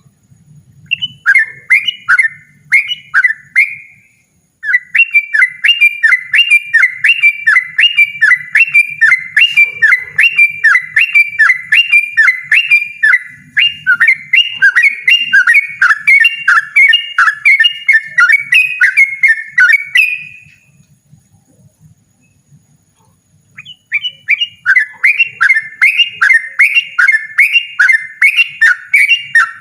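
Yellow-vented bulbul (trucukan) singing a loud, rapid string of repeated notes at about three to four a second, kept up for long runs. It stops for a few seconds about two-thirds of the way through, then starts again.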